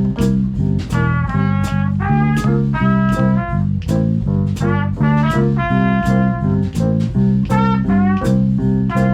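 Swing band playing, with brass carrying the melody over bass and a steady beat of drum strikes.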